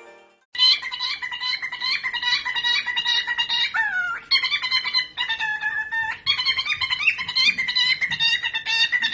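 A parrot chattering in a rapid run of short, shrill chirps and whistles, with one swooping squawk-like note midway, starting about half a second in.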